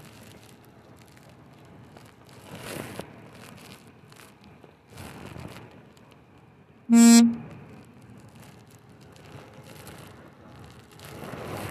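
A single short vehicle horn toot about halfway through, over low rustling and handling noise.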